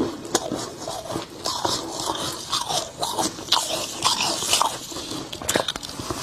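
Close-up biting and chewing of soft, snowy freezer frost: a dense run of crisp, irregular crunches with a few louder snaps.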